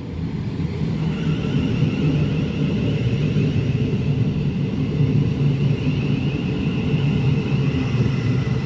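Thameslink Class 700 electric multiple unit running into the platform: a loud, steady rumble that builds over the first second, with a high, wavering whine above it from about a second in.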